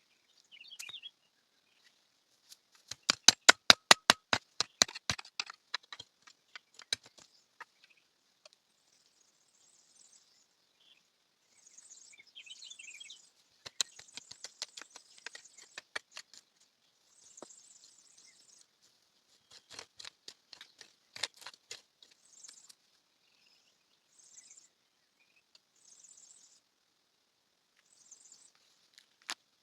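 Small birds chirping, with several bursts of rapid clicking; the loudest burst comes about three seconds in.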